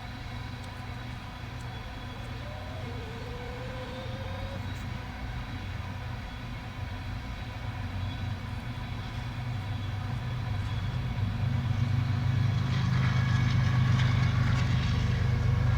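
A steady low mechanical hum, like an engine running, that grows gradually louder and is loudest over the last few seconds.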